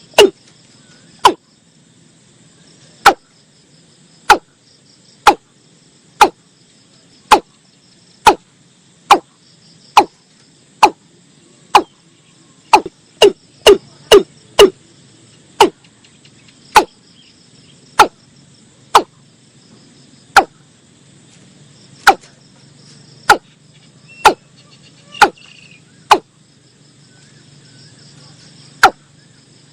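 Watercock calling: a long series of short, sharp notes that each drop steeply in pitch, mostly about one a second, with quicker runs of several notes here and there. A faint steady chirring of crickets lies underneath.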